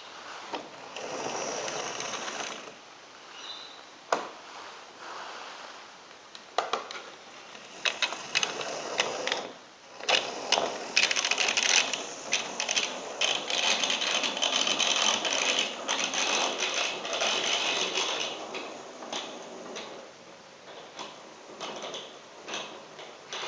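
Hornby OO gauge model locomotive's small electric motor whirring while it shunts, with a rapid clatter of clicks from wheels and wagons on the track. It slows or pauses briefly twice and is busiest and loudest in the middle.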